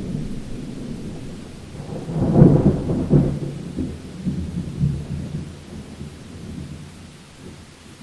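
Thunder rumbling in a rainstorm: a low roll that builds about two seconds in, peaks with a couple of heavier cracks, then rolls away over several seconds, over steady rain.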